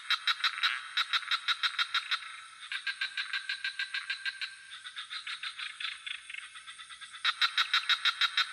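A chorus of frogs calling in rapid pulsed croaks, about six pulses a second, several calls overlapping, louder at the start and again from about seven seconds in. A steady high trill of crickets runs underneath.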